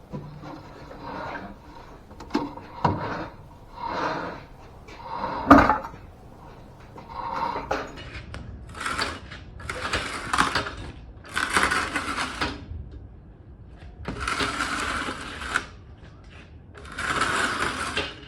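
A floor jack being pumped to raise the car, giving a run of separate mechanical strokes about every second and a half, with a sharp metal knock about six seconds in.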